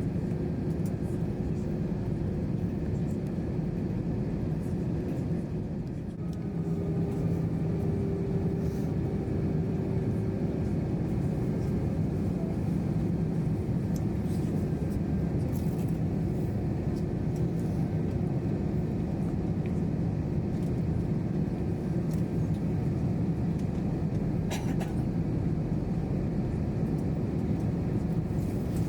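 Steady engine and air noise inside the cabin of an Airbus A321 airliner, an even rumble with a constant low hum, briefly dipping about six seconds in.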